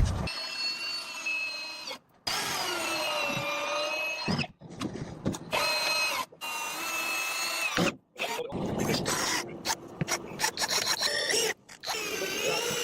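Power drill running in several short bursts, its whine sliding up and down in pitch, with abrupt cuts between the bursts.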